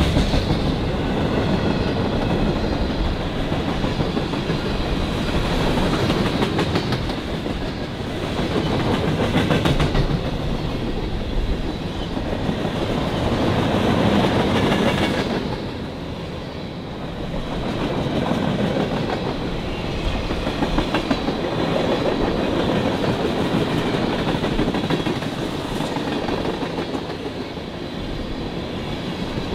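Train cars rolling past: a steady rumble with wheels clacking over the rail joints, the sound swelling and dipping as the cars go by.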